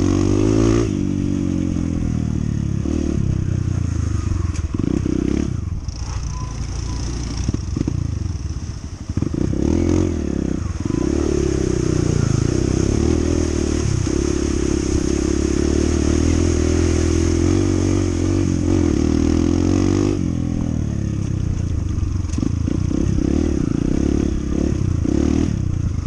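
Honda CT125's single-cylinder four-stroke engine running under way, its pitch rising and falling with the throttle and dipping briefly a few times, around the middle and again near the end.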